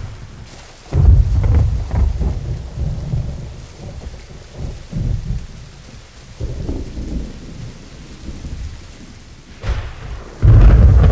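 Thunder sound effects from a film mix: a deep rumbling clap about a second in that dies away over several seconds, a couple of softer rolls in the middle, and another loud rumble starting near the end.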